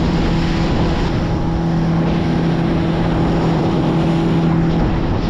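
Motorboat under way: the engine's steady hum over rushing wind and water noise, with the hum dropping away shortly before the end.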